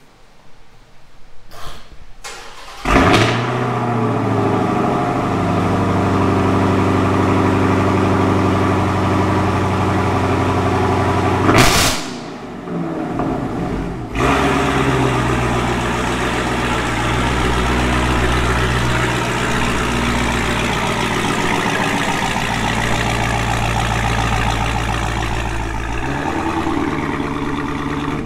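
Dodge Charger's V8 starting with a loud flare about three seconds in, then idling steadily. Near twelve seconds a brief rev is followed by a couple of quieter seconds, then it runs loud and steady again. Near the end the engine note shifts and fades as the car pulls away.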